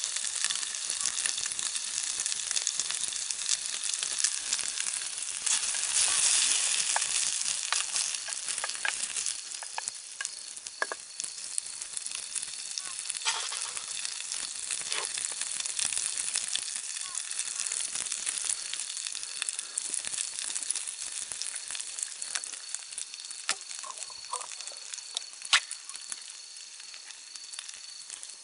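Food sizzling in a cooking pot over a campfire: a steady hiss with scattered sharp crackles, fading a little toward the end.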